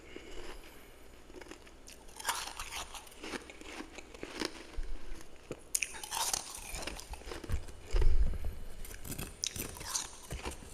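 Close-up chewing of powdery freezer frost: irregular crisp crunches and bites that start about two seconds in, with a dull low thump about eight seconds in.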